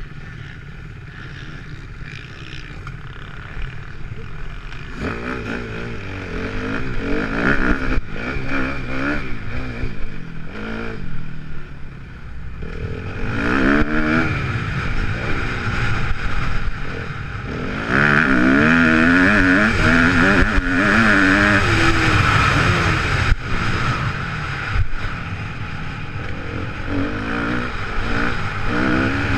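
Kawasaki KX250F motocross bike's four-stroke single-cylinder engine revving up and down as it is ridden, getting louder about five seconds in and loudest in the second half.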